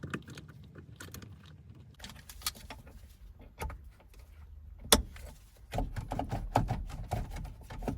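Irregular metal clicks and clinks of pliers on a shifter cable fitting being twisted into place on the shift linkage. There is one sharp, loud click about five seconds in and a busier run of clicking and knocking near the end.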